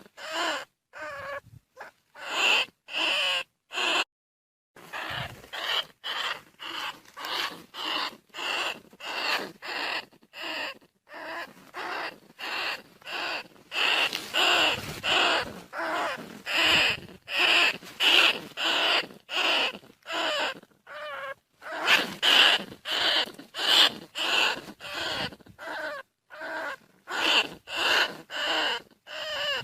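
Bandicoot rat squeaking calls, short sharp squeaks repeated about twice a second, with a few brief pauses; a lure call for drawing rats in.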